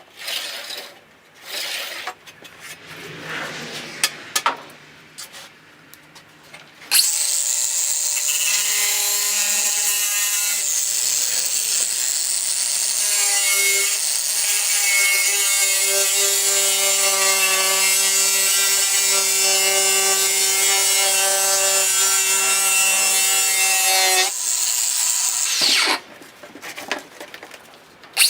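A handheld power cutting tool runs loud and steady with a high whine for about seventeen seconds, then is switched off and winds down. Before it start there are scattered knocks and handling sounds.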